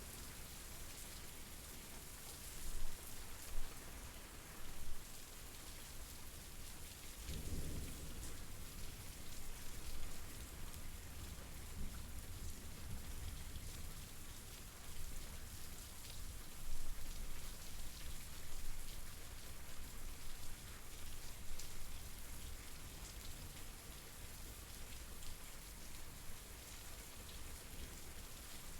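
Steady rain falling, with a few louder drops. A low rumble of thunder comes in about seven seconds in and rolls on for several seconds.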